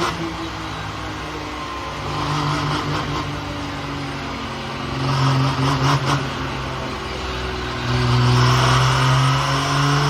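A vehicle engine running under load, getting louder in surges about two, five and eight seconds in.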